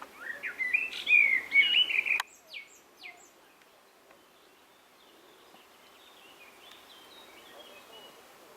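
A songbird singing loudly in quick, rising, warbling phrases that cut off abruptly about two seconds in. A few short chirps and faint, distant bird twittering follow.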